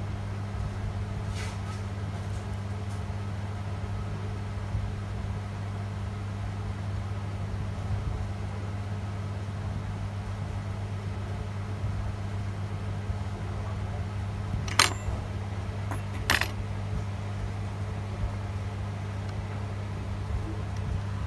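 Steady low hum on a laptop repair bench, with a few sharp metallic clicks of small tools on the motherboard, the loudest two about 15 and 16 seconds in.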